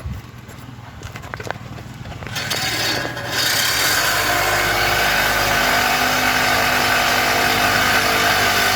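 Power tool cutting through a pickup's steel exhaust pipe, starting about two and a half seconds in, dipping briefly, then cutting steadily.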